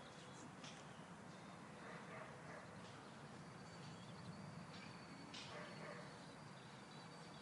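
Quiet outdoor ambience with faint, scattered bird chirps over a low steady background hum.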